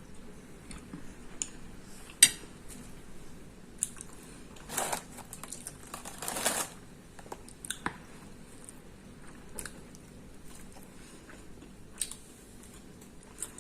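Close-up eating sounds: chewing with scattered clicks of cutlery on a plate, a sharp clink about two seconds in, and two short swishes a little after the middle.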